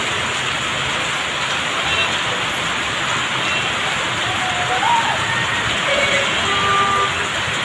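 Heavy rain pouring down onto a wet road, a steady, dense hiss.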